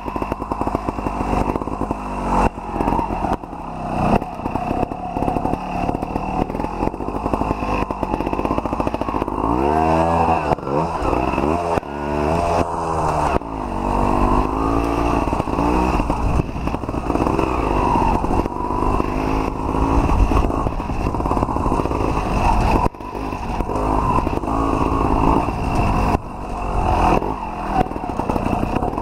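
Sherco ST 300 trials motorcycle engine being ridden, its revs rising and falling with the throttle and swinging widely up and down around ten to thirteen seconds in. Frequent short knocks and clatter run through it.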